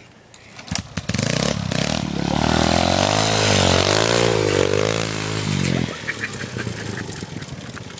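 Pit bike engine revving, its pitch climbing and wavering up and down for several seconds, then dropping back to a lower, rougher running about six seconds in.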